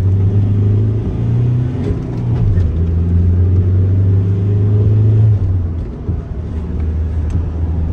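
Mazda BT-50's 2.2 L four-cylinder turbo-diesel engine heard from inside the cab, accelerating onto a highway. Its note drops twice, about two and a half seconds in and again around five and a half seconds in, as the manual gearbox is shifted up.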